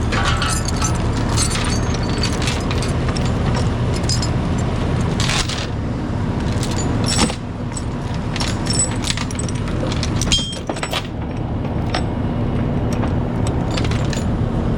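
Heavy diesel engine running steadily, with repeated sharp metallic clanks and rattles over it.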